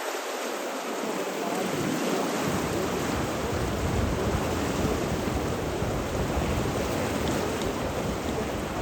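Steady rushing water noise, with a deeper rumble filling in about two and a half seconds in.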